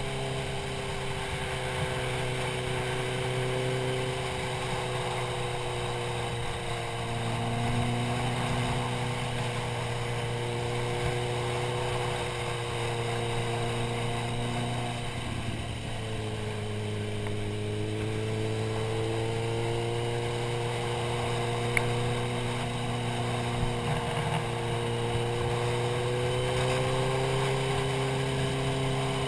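Motorcycle engine running steadily at speed, with wind and road rush on a helmet-mounted camera. The engine note dips and comes back up about halfway through.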